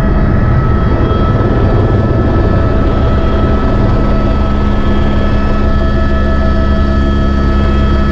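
Tour helicopter running steadily: a loud, even engine and rotor noise with a few steady whining tones.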